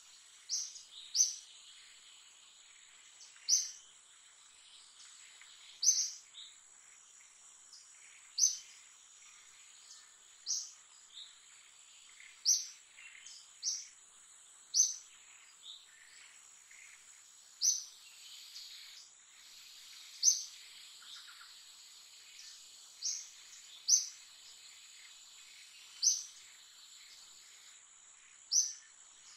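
A bird repeating a short, sharp, high chirp about every two seconds, over a steady high-pitched insect drone.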